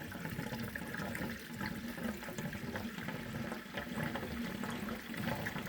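Water draining from an Eccotemp 45 tankless water heater through the drain-valve tubes into a bucket, running and splashing steadily.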